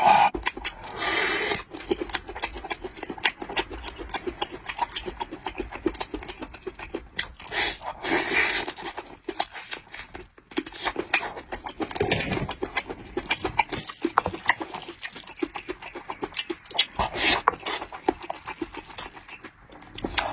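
Close-miked chewing and lip-smacking of a person eating rice, with many small wet clicks and a few louder stretches about a second in, near eight seconds and near twelve seconds.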